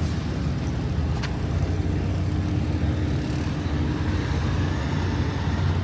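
A diesel truck engine running at a steady idle, a low even drone, with a faint click about a second in.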